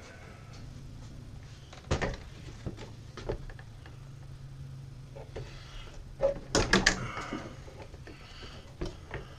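Plastic cowl cover of a Chevrolet HHR being pried and pulled loose by hand: its clips pop and the panel knocks and clatters. There is a sharp snap about two seconds in, and a quick run of loud snaps and knocks past the middle.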